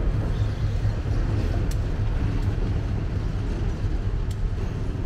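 Low, steady rumble of a departing train, slowly fading as it pulls away.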